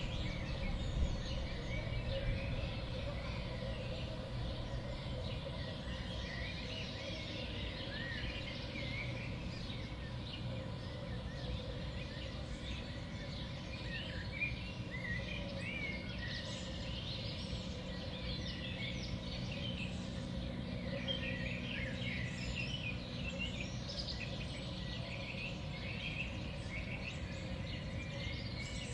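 Small songbirds calling and chirping, many short quick notes overlapping, busier after the first several seconds, over a steady low background rumble.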